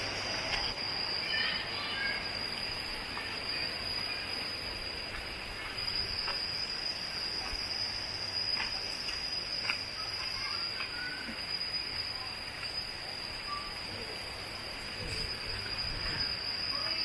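Insects droning steadily at one high pitch, over an even background hiss, with a few short chirps and clicks scattered through.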